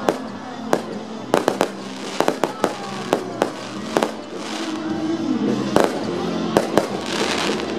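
Aerial fireworks shells bursting in a fireworks display: a rapid run of sharp bangs, many in quick clusters over the first half and fewer toward the end. A crackling fizz from glitter shells comes a little after the middle and again near the end.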